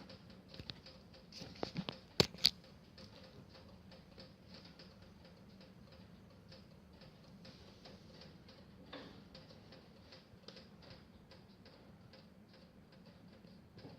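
Wood fire crackling in a stove: a steady run of small ticks and snaps, with two loud sharp cracks about two seconds in.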